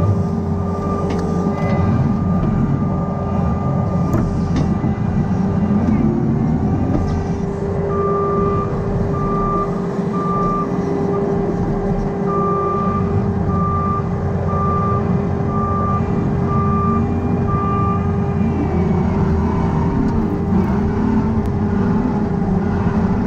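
A work vehicle's engine running steadily while its reverse backup alarm beeps a little faster than once a second through the middle of the stretch, with a brief break.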